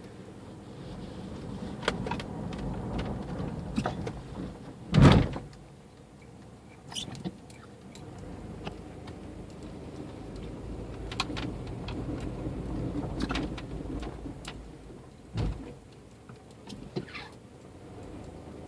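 2001 GMC Jimmy running, with a steady low hum and a loud clunk about five seconds in, a second clunk near the end, and lighter knocks between: the horrible noise it has just started making under braking, its cause unknown.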